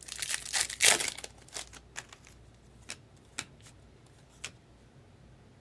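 Trading cards being handled and flicked through. A dense rustle of sliding cards comes first, followed by a few sharp single clicks of cards being snapped or set down.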